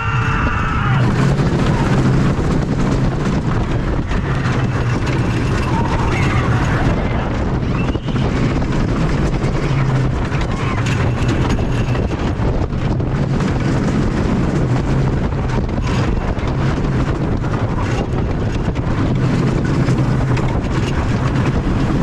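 Wildfire roller coaster train running, heard from on board: a steady low mechanical rumble with wind on the microphone, and a brief voice right at the start.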